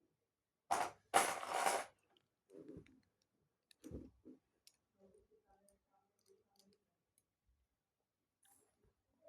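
Plastic Lego pieces being handled and clicked: two short loud rustling bursts about a second in, then a few faint knocks and scattered small ticks.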